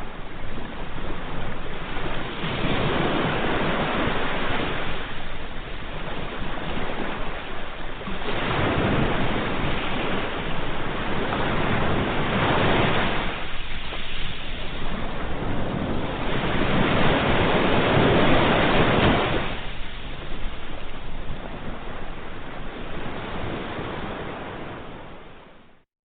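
Ocean waves breaking and washing up the shore, the surf swelling and ebbing about four times, each surge lasting a few seconds. The sound fades out at the very end.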